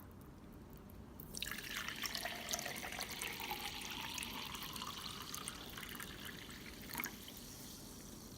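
Water trickling and dripping, with many small scattered drops ticking, starting about a second in.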